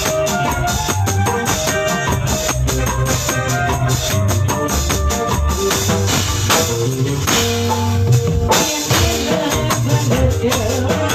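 Tambourine and drums played to a steady, dense beat along with a melodic instrumental backing.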